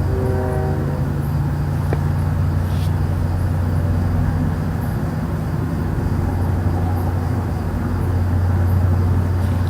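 A loud, steady, low droning hum with no clear source. A short horn-like tone ends in the first second, and there is a single click about two seconds in.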